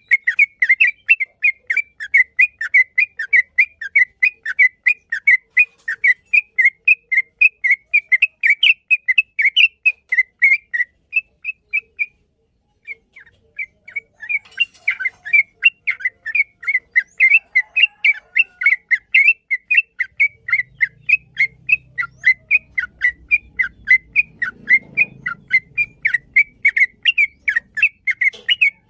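Yellow-vented bulbul (trucukan) singing a long, rapid run of short whistled chirps, several a second, with a brief pause about halfway through.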